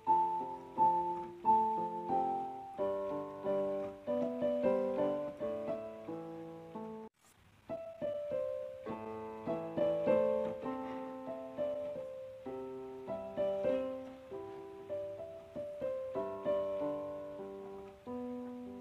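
Background piano music: a gentle melody over chords, each note struck and fading. It cuts out for a moment about seven seconds in, then resumes.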